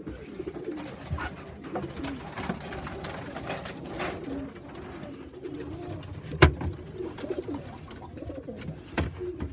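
Domestic pigeons cooing, several birds overlapping, with a sharp knock about six and a half seconds in and a lighter one near the end.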